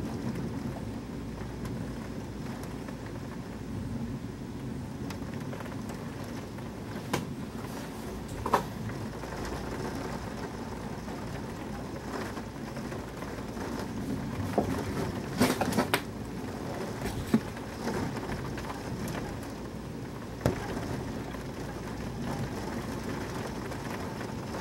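Heavy rain falling in a steady hiss during a thunderstorm, with scattered sharp taps, several of them close together about two-thirds of the way through.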